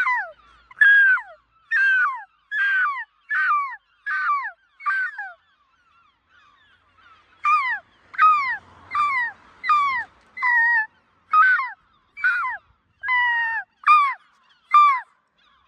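Gulls giving a long series of loud, downward-sliding calls, about two a second. The calls break off for about two seconds near the middle, then resume.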